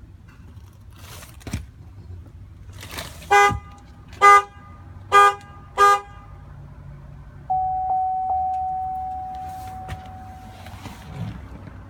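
Four short honks of a 2003 Chevrolet Avalanche's horn, followed by a single long chime tone that fades away.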